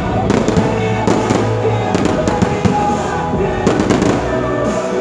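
Aerial fireworks bursting close overhead: a run of irregular sharp bangs and crackling, one after another.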